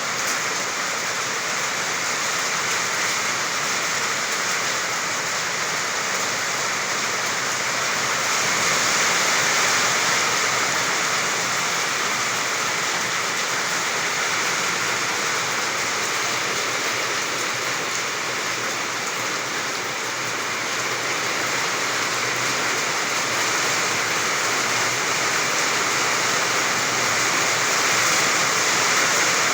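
Heavy rain pouring steadily, a dense even hiss that swells slightly a few times.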